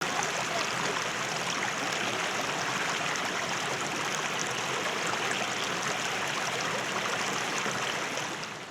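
Stream water rushing over rocks close by: a steady rush that starts suddenly and eases off near the end.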